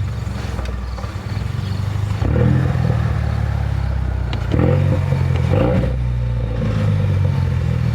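Car engine idling and being revved, with short rises in revs about two seconds in and twice more around the middle.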